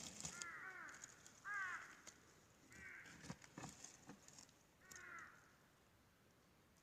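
A crow cawing faintly in four harsh calls, spaced a second or two apart.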